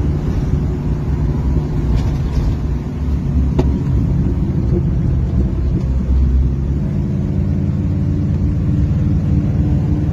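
Car engine running steadily at cruising speed with road rumble, heard from inside the cabin. A few faint clicks come through about two and three and a half seconds in.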